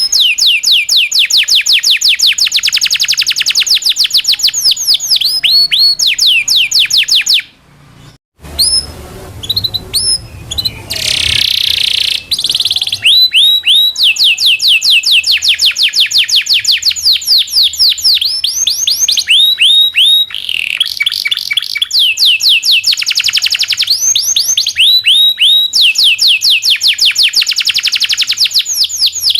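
Domestic canary (local Indonesian strain) singing a long rolling song: long trills of rapid, evenly repeated notes that sweep downward. The song breaks off briefly about eight seconds in, turns rougher for a moment, then rolls on.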